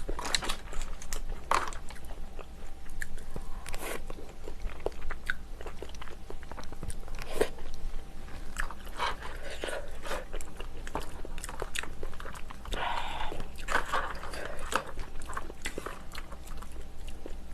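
Close-miked eating of a seafood stew with clams: chewing and biting, with many scattered sharp clicks.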